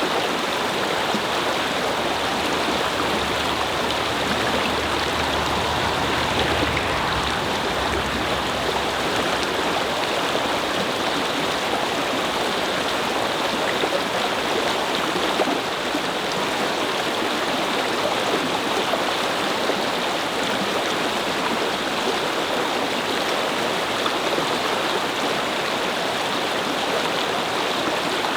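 Brook flowing: a steady rush and babble of running water. A low rumble underneath fades out about eight seconds in.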